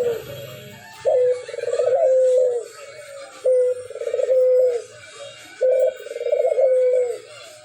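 A puter dove (Indonesian local collared dove) cooing over and over: each call is a short note followed by a longer trembling coo, about every two seconds, three full calls plus the tail of one at the start. The coo is the unusual-sounding call the bird is kept for.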